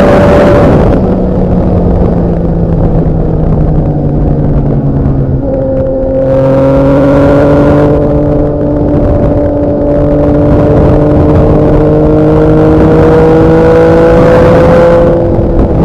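Motorcycle engine running under load, its pitch shifting about five and a half seconds in, then climbing slowly as the bike gathers speed. A rush of noise comes near the end.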